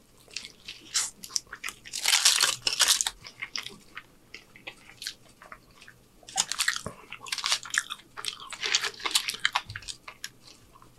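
Close-up eating sounds of a person biting into and chewing a foil-wrapped carne asada super burrito: many small crackles and clicks, with a louder, denser crackling stretch about two seconds in and another busy stretch around six to nine seconds in.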